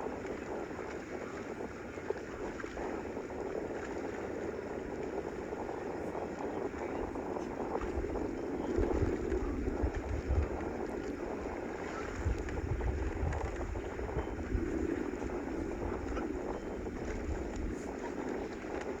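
Steady outdoor background noise with wind rumbling on the microphone, in low gusts that are strongest about eight to fourteen seconds in.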